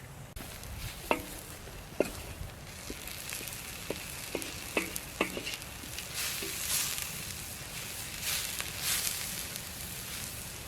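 Food sizzling in hot oil in a cooking pot, with a metal utensil clinking against the pot several times in the first half. The sizzle swells louder in the second half.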